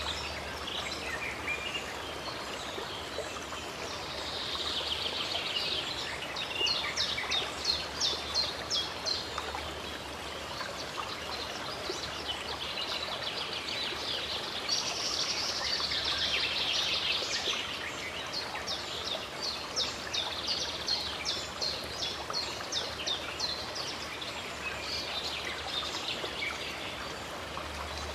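Steady rush of a running stream with birds singing over it: warbled phrases and quick series of sharp repeated notes that come and go.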